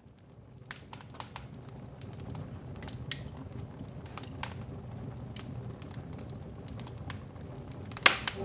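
Irregular crackling and popping over a low rumble, fading in from silence over the first couple of seconds, with one loud pop about eight seconds in.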